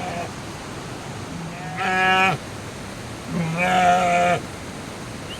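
Sheep bleating twice: a short call about two seconds in, then a longer, wavering one.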